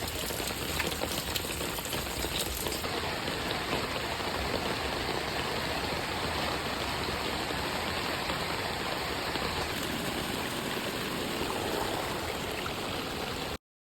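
Steady rush of running water in the rain, with fine crackling drops during the first three seconds. It cuts off suddenly near the end.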